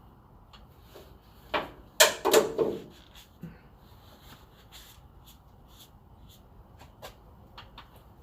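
A few sharp knocks and clunks of tools or parts being handled. The loudest pair comes about two seconds in, followed by light taps and ticks.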